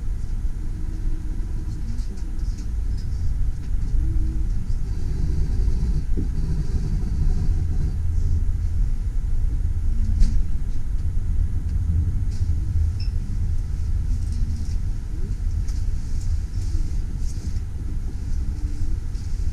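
Steady low rumble of a Trenitalia passenger train rolling slowly along the track, heard from inside the carriage, with faint scattered high squeaks and ticks and one sharper click about ten seconds in.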